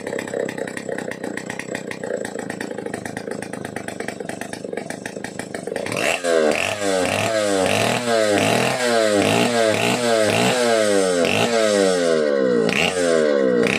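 Vintage Stihl 070 AV two-stroke chainsaw engine running steadily, then from about six seconds in revved again and again, its pitch rising and falling about one and a half times a second.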